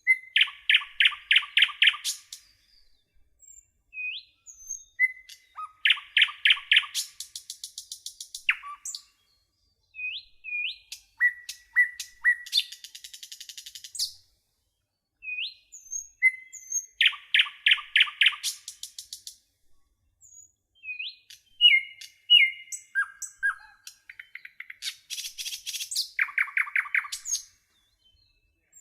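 A songbird singing in repeated phrases: a few short upslurred whistles, then a fast, loud trill of chirps at about five notes a second. The phrases come every few seconds over a clean, otherwise silent background.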